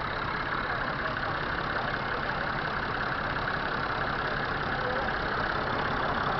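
John Deere 7930's 6.8-litre diesel engine running steadily.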